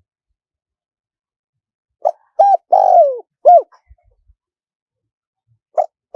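Spotted dove cooing: one phrase of four coos, a short note, a slightly longer one, a long note that slides down in pitch, then a short final coo. A short opening note of the next phrase comes near the end.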